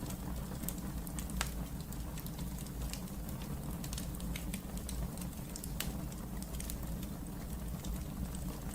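Wood fire burning in a fireplace: a steady low rumble of the flames with irregular sharp crackles and pops, one louder snap about a second and a half in and another near six seconds.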